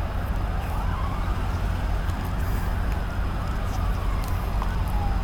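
A siren wailing, its pitch rising and then slowly falling, over a steady low rumble.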